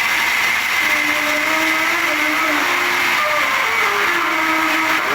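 Sawmill saw running steadily with a constant high whine, with a guitar-like melody underneath.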